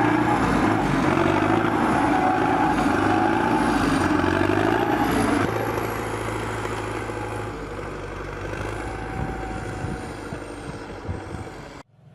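Heavy tracked vehicle's engine running hard under load, its pitch wavering as it works. It is loudest for the first five seconds or so, then eases off, and cuts off abruptly near the end.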